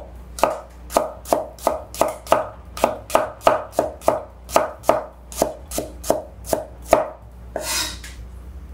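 Chinese cleaver slicing fresh ginger on a wooden cutting board: a steady run of sharp knocks of the blade on the board, about three a second, then a brief scrape near the end as the slices are pushed together with the blade.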